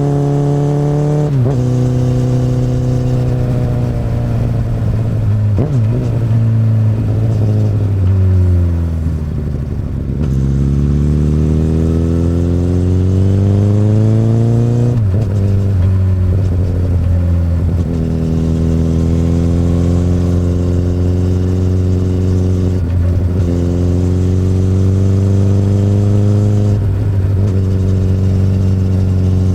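2008 Honda CBR1000RR (SC59) inline-four engine running through an Akrapovič exhaust while being ridden. The engine note drops sharply at an upshift about a second in, falls away as the bike slows, climbs steadily as it accelerates, and drops again at the next upshift about halfway through, then holds fairly steady.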